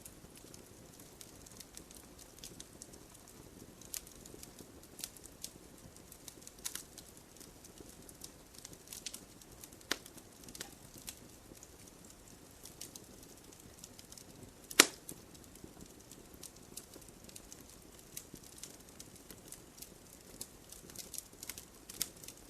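Wood campfire crackling: a steady low hiss with frequent small sharp pops and snaps, and one much louder pop about two-thirds of the way through.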